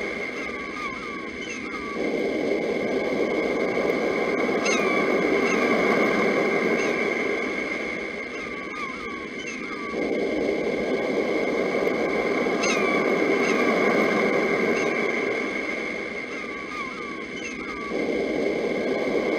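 Sea waves washing in and drawing back, with birds giving short falling chirps over them. The same 8-second stretch repeats as a loop, so each wave swell jumps in suddenly about every eight seconds.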